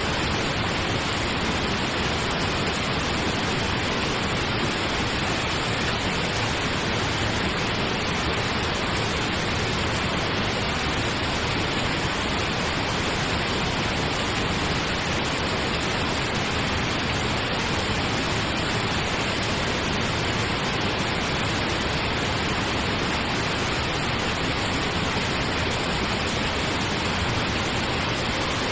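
Steady synthetic pink noise, an even hiss with no changes or breaks.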